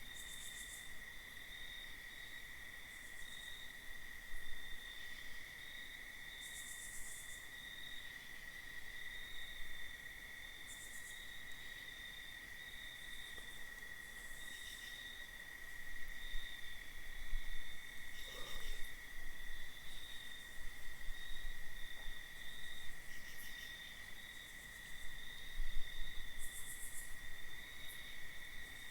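Steady night-time insect chorus: one continuous high trill. Shorter, higher buzzing pulses come in every few seconds, and a brief lower call sounds about 18 seconds in.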